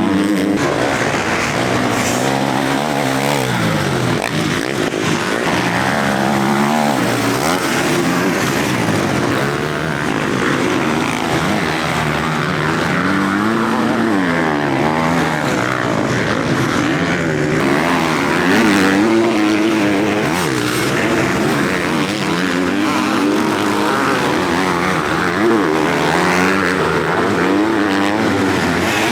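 Several motocross bikes racing on track, their engines revving up and down as the riders throttle on and off and shift, with the pitches of different bikes overlapping.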